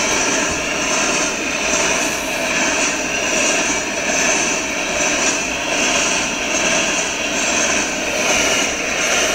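Freight train of covered grain hopper cars rolling past at speed: a steady rush and rumble of steel wheels on rail, gently rising and falling as the cars go by.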